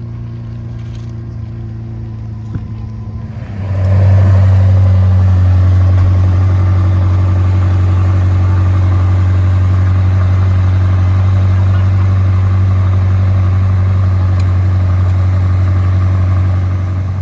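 Supercar engine running with a steady low note, growing much louder about four seconds in, holding steady, and easing off near the end.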